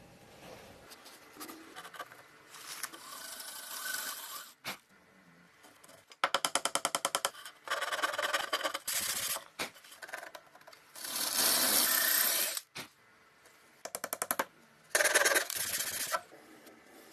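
Wood being worked with tools: several bursts of scraping or rasping, each a second or two long, and a run of rapid clicks, about ten a second, around six seconds in.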